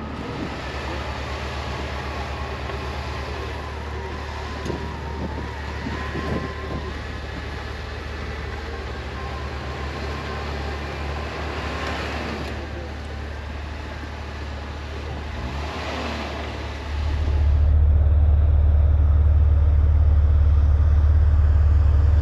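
Off-road vehicle engine running steadily, with a wavering whine on top; about seventeen seconds in the sound turns suddenly louder and deeper into a heavy engine drone.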